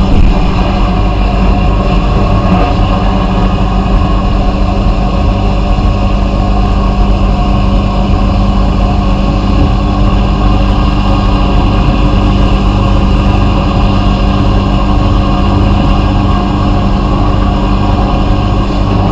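A motor or engine running steadily at a constant speed, a loud even drone with a steady hum.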